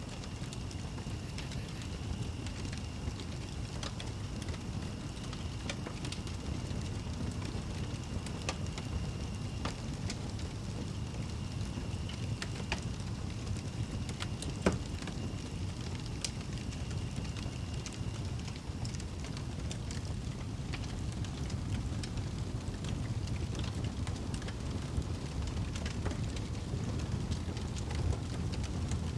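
Wood fire in a fireplace crackling, with scattered small pops and one sharper pop about halfway, over a low steady rumble.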